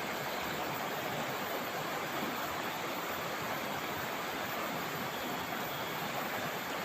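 River water rushing steadily in a continuous hiss.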